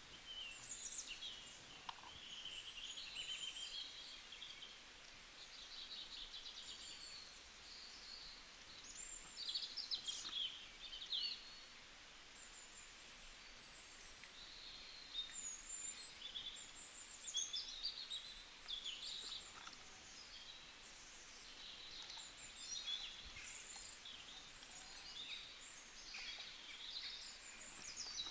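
Faint birdsong: high chirps and warbling trills coming and going, with a couple of light clicks of plastic toys being handled.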